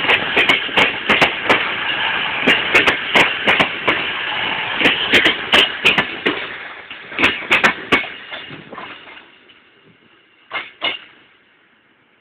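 Class 221 Voyager diesel train passing, its wheels clicking over rail joints and points in quick, irregular knocks over a steady rumble, which fades away about nine seconds in; two last clicks follow near the end.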